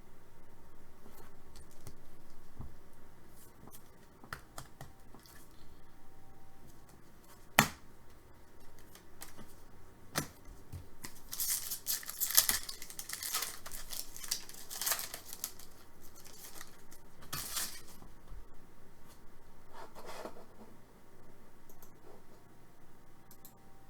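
Hockey card packs being torn open and the cards handled: crackly tearing and crinkling of the pack wrappers, with a few sharp clicks and a busy stretch of tearing in the middle.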